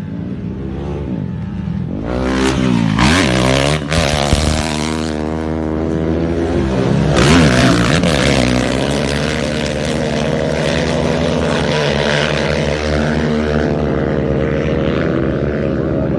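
Rally vehicle engine revving hard as it races past, its pitch swinging up and down, over a steady low engine drone. A rush of noise sets in about two seconds in and stays to the end.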